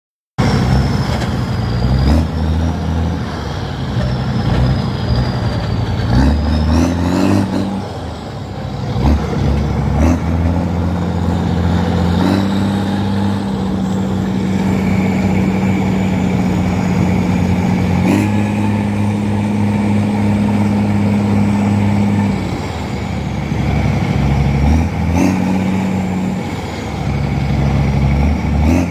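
Heavy diesel truck engine running under load, its speed stepping up and down several times. A thin high whine rises and falls with the engine.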